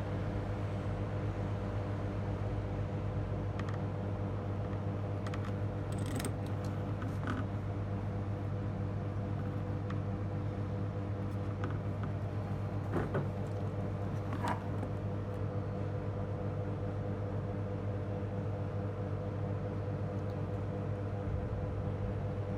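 A steady low hum throughout, with a few faint clicks and taps scattered through the middle.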